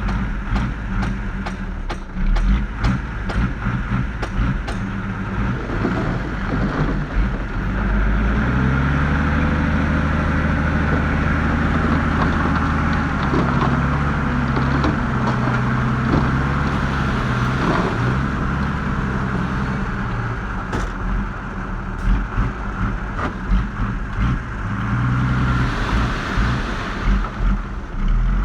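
Diesel engine of heavy earthmoving machinery running, with rapid metallic clanks over the first few seconds. About eight seconds in, the engine note grows stronger and holds steady, as if under load.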